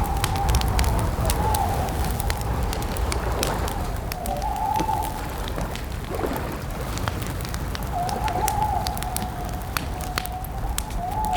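Campfire crackling, with sharp pops over a low rumble. A wavering whistling tone runs underneath and swells every few seconds.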